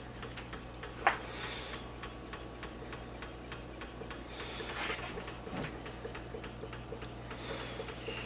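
Henrici hot air (Stirling) engine running, its moving parts clicking in an even, rapid tick, with one sharper click about a second in.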